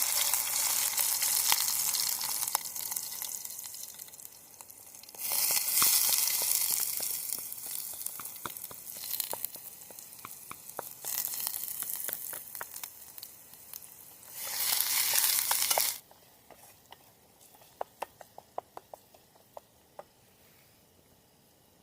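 Food frying in hot oil: loud sizzling in bursts that fade away, with crackles, and sharp scattered pops near the end once the sizzle drops.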